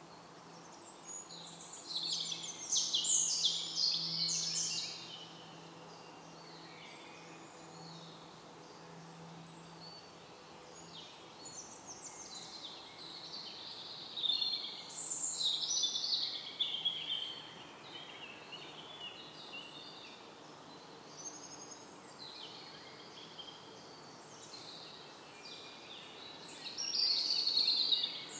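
Songbirds singing in woodland: three loud bursts of song, near the start, about halfway through and near the end, with quieter calls between, over a faint steady low hum.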